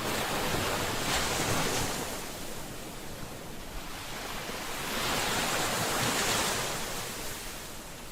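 Ocean waves breaking on a shore, a steady surf hiss that swells twice, about a second in and again around five seconds in, each wash fading away afterwards.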